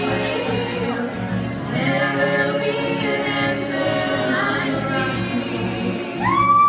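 A group of women singing together in a choir-like, a cappella style. Near the end, high-pitched whoops and cheers from the audience break in.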